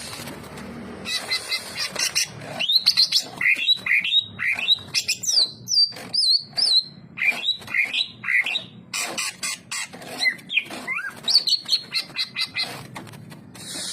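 Cucak ijo (greater green leafbird) singing a long, varied song: rapid whistled phrases with quick rising and falling slides, trills and sharp chip notes, nearly without pause.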